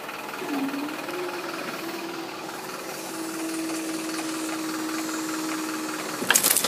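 Diesel passenger train passing over the level crossing: a steady rushing noise with one held engine tone that dips briefly at the start and cuts off near the end. A few sharp clicks follow.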